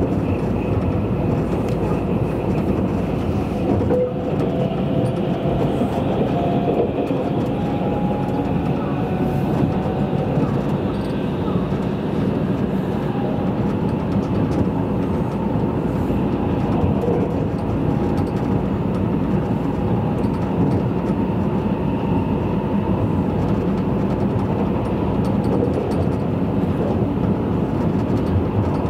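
Cabin running noise of a Tobu Spacia limited-express electric train at speed: a steady rumble of wheels on the rails, with a faint motor whine drifting slowly in pitch.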